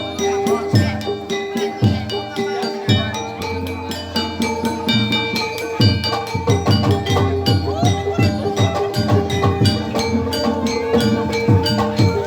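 Gamelan accompaniment for an ebeg horse-trance dance: fast hand-drum strokes driving a dense rhythm under ringing, sustained pitched tones.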